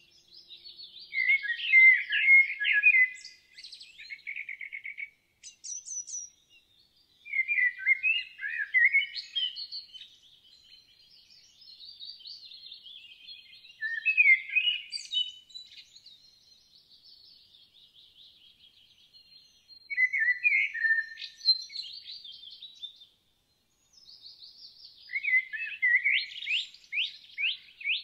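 Songbird singing in short, loud, many-note phrases about every six seconds, with quieter twittering between them. The last phrase, near the end, is a rapid run of repeated notes.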